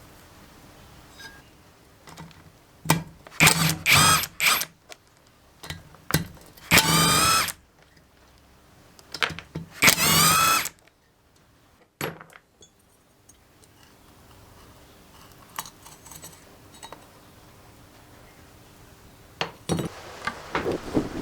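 A handheld electric power tool, such as a drill, triggered in several short bursts; on the two longer runs its motor whine rises as it spins up. Clicks and knocks fall between the bursts.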